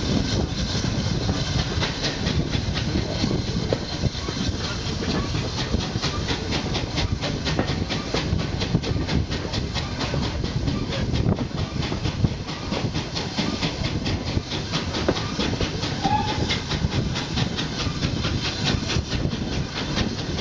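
Steam-hauled passenger train running along the line, heard from an open carriage window: a steady rush of wheel, rail and wind noise with a continuous run of quick, even clicks.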